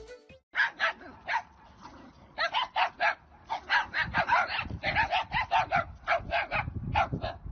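A dog barking repeatedly in quick runs of short, sharp barks.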